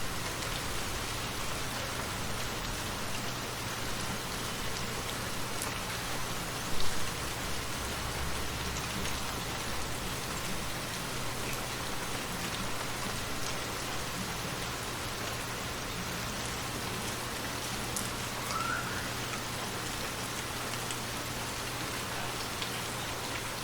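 Steady rainfall, an even hiss of drops pattering on a surface with scattered individual drop ticks. One brief louder sound stands out about seven seconds in.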